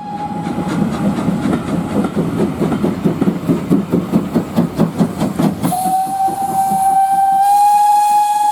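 Steam locomotive on the move: its whistle cuts off about a second in, followed by a rapid even beat of about four a second as the train runs. About two-thirds of the way in, a long steam whistle blast begins and holds steady, with a hiss of steam near the end.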